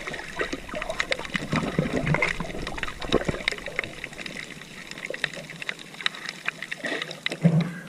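Water trickling and splashing, with many small sharp clicks and knocks scattered throughout.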